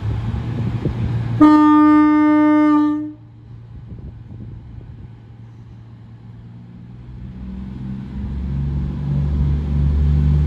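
A train's horn sounds once on a single note for about a second and a half. Its diesel engine then builds up in level from about seven seconds in as it pulls away.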